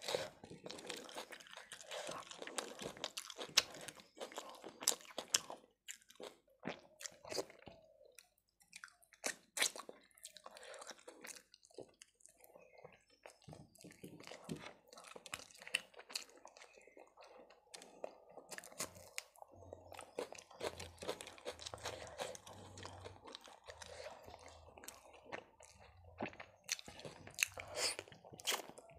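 Close-miked chewing and biting of brown bread and chicken kosha, a steady run of irregular mouth clicks and bites.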